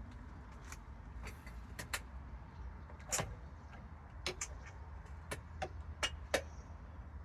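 About a dozen irregular sharp clicks and light knocks of hands handling parts and tools, over a low steady hum. The model engine is not running.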